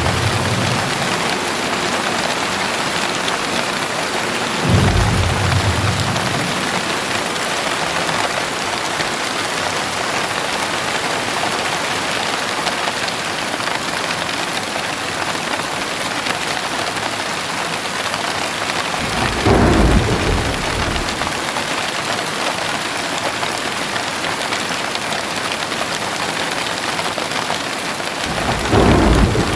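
Heavy rain pouring steadily, with three short low rumbles of thunder: about five seconds in, near the middle, and near the end.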